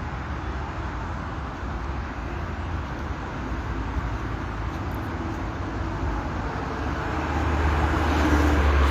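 Steady low rumble of vehicle noise with a hiss over it, growing louder near the end.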